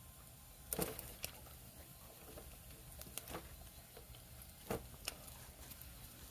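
Firewood burning in a camping fire pit, crackling with scattered sharp pops, the loudest about a second in and again near the five-second mark.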